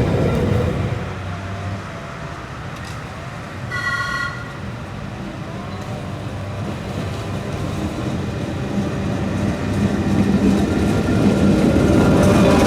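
Trieste–Opicina tram running with a steady rumble that fades after the start and builds again towards the end. About four seconds in, a short high-pitched warning signal sounds once.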